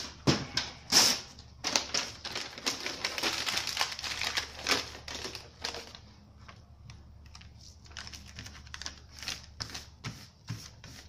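Aerosol spray-paint can sprayed in many quick short bursts of hiss, denser for the first few seconds and then sparser and softer.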